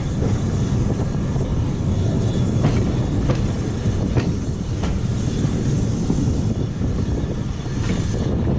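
A train running along the track: a steady low rumble with occasional sharp clicks of wheels over rail joints.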